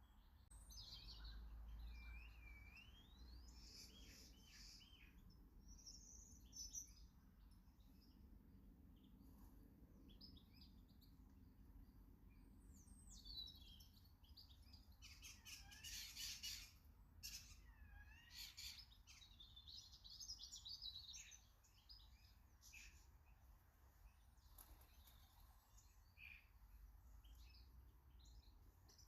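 Garden songbirds singing and chirping, faint: varied warbled phrases with quick rising and falling notes, busiest in the middle.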